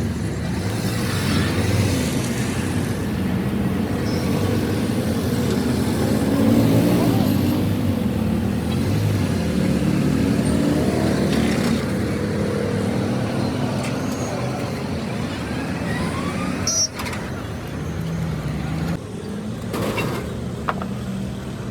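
A motor vehicle running, with people's voices over it; the sound changes abruptly a few times near the end.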